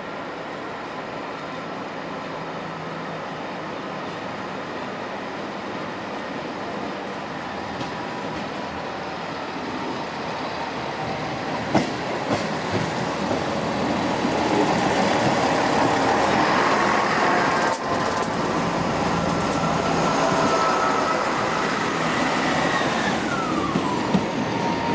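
Diesel train moving through the station platform, growing louder, with a steady whine and sharp clicks from the wheels. Near the end the whine drops in pitch.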